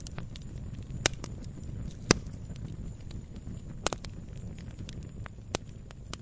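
Wood fire crackling: a low steady rumble of burning logs with scattered small clicks and a few louder sharp pops of the firewood.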